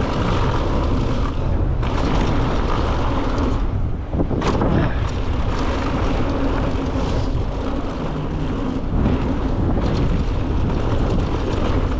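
Wind rushing over the camera microphone and mountain bike tyres rolling fast over a dirt jump trail, a steady low rumble, with a few sharp knocks, the clearest about four and a half seconds in.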